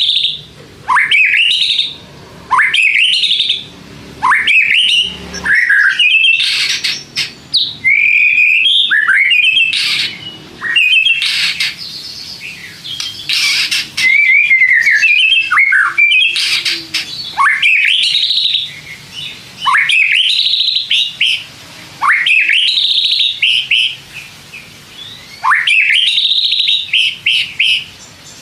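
White-rumped shama singing loudly: a series of sweeping upward whistled phrases, one every second or two, with a denser run of fast warbling and harsher notes in the middle.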